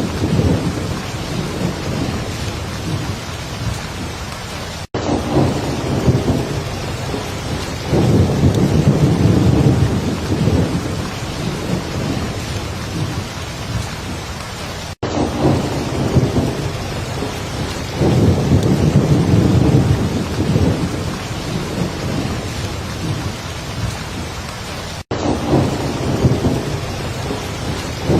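Heavy rain falling steadily, with low rolling thunder that swells and fades several times. The sound cuts out for an instant three times, about ten seconds apart.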